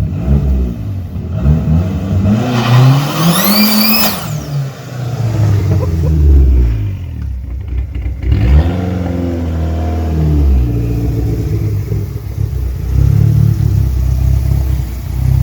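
Big-turbo Dodge Neon SRT-4's turbocharged four-cylinder engine revving hard several times, its pitch climbing and dropping. A high turbo whistle rises with the first big rev about three seconds in.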